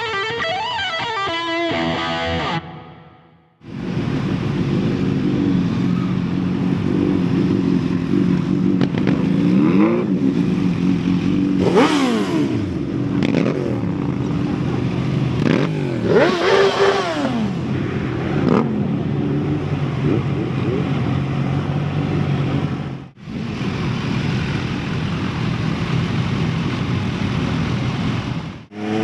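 Motorcycle engines on a group ride. A short stretch of guitar music ends about three seconds in, then the bikes run steadily, their engine pitch sweeping up and back down twice, around twelve and seventeen seconds in.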